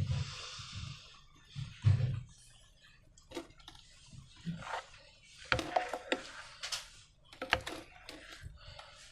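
Slime being handled with balloons: irregular soft squishes, clicks and taps. There is a soft low thud about two seconds in and a busier run of clicks around six to eight seconds.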